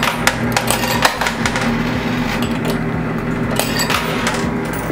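Quarters clinking and clattering as they drop into and slide through an arcade coin pusher: many sharp metallic clicks over the machine's steady hum.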